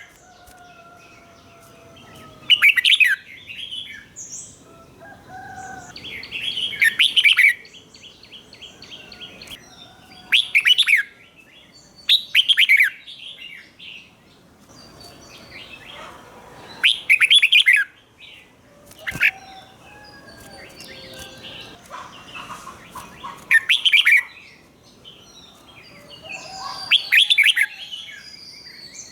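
Red-whiskered bulbul singing short, loud, whistled phrases every few seconds, with fainter chirps in between.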